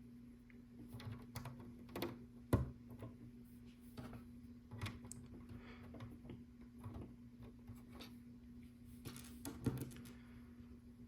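Small plastic LEGO pieces clicking and tapping as they are picked through and pressed onto the build, in scattered irregular clicks, the sharpest about two and a half seconds in. A faint steady hum runs beneath.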